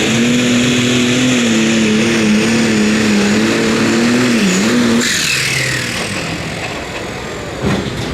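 Pulling vehicle's engine running flat out at a steady, high pitch, dipping briefly and then cutting off suddenly about five seconds in, leaving a falling whine and outdoor noise. A single thump near the end.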